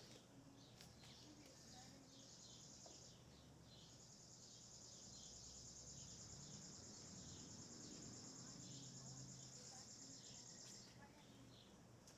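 Faint outdoor ambience: an insect trills steadily at a high pitch, pauses briefly about three seconds in, then resumes and stops near the end. Short bird chirps repeat throughout.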